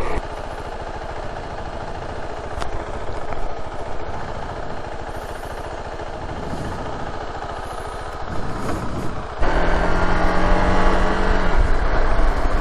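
Motorcycle on the move: steady wind and road noise over the engine. About three quarters of the way through it gets louder, with the engine note holding a steady pitch for a couple of seconds.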